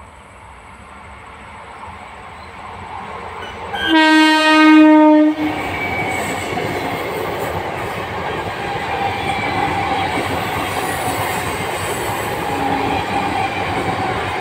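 Howrah–Katwa EMU electric local train approaching, its noise growing, then sounding its horn once, a single steady note of about a second and a half, about four seconds in. It then runs past with a steady rolling noise of wheels on the rails.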